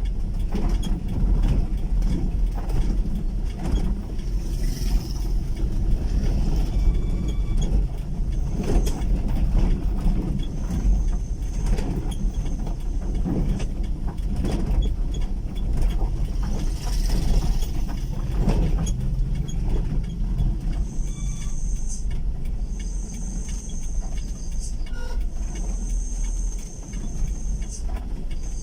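A vehicle on the move: a steady low engine rumble with wind buffeting the microphone. In the last third a high steady whine comes and goes in stretches of a couple of seconds.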